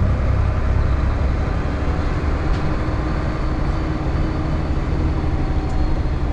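Van Hool A320 city bus heard from inside the passenger cabin, its engine and drivetrain running steadily with a low rumble. A faint whine joins about two seconds in.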